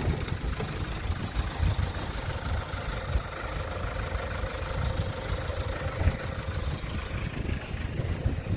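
Kia Bongo III refrigerator truck's engine idling steadily, with a faint steady hum above the low rumble.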